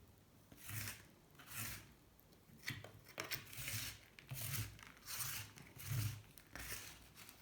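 Repeated rough scraping strokes on a Honda C70 engine case, about nine in seven seconds, several with a dull knock underneath, as caked oil, sand and saltwater corrosion deposits are scraped off the metal.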